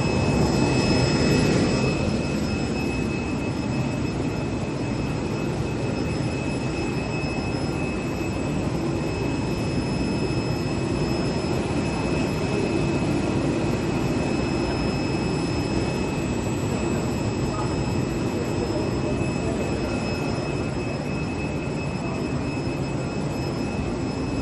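Steady running noise of a leather CNC cutting machine's vacuum blower, a continuous rush with a fixed high whine over it.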